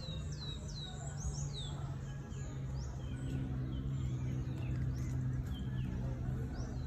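Birds calling with short, quick falling chirps, several in the first two seconds and fewer, fainter ones after, over a steady low hum.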